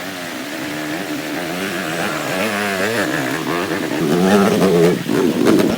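Dirt bike engine revving, its pitch rising and falling again and again as the throttle is worked, with a short dip about five seconds in.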